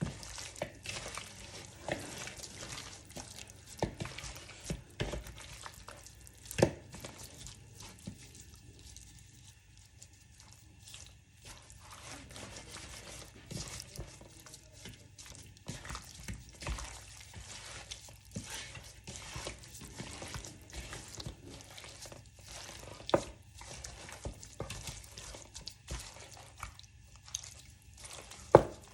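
Raw chicken pieces coated in oil and sauce being mixed with seasonings in a bowl: irregular wet squelches and clicks, with a few sharper knocks about six seconds in, around two-thirds through and near the end.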